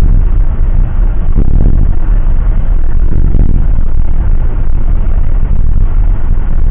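Loud, steady low rumble of a jet airliner heard from inside the cabin.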